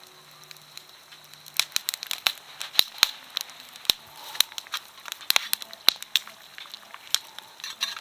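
Wood campfire crackling, with irregular sharp snaps and pops and a handful of louder cracks through the middle.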